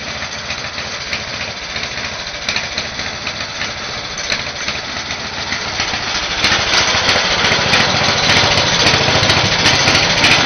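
Speedex S24 garden tractor engine running just after a cold start, not yet warmed up. It gets louder about six and a half seconds in.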